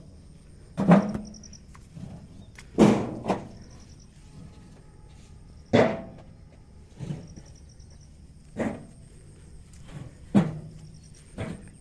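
Bricks being handled and stacked: sharp knocks of brick on brick, about eight of them at uneven intervals of one to two seconds.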